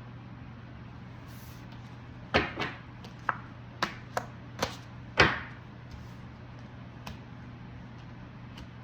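Tarot cards being slapped and tapped down on a table: about seven sharp knocks in quick succession near the middle, the first and last loudest. A steady low hum runs underneath.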